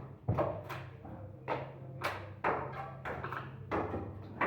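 A series of about eight sharp knocks or taps at an uneven pace, over a steady low hum.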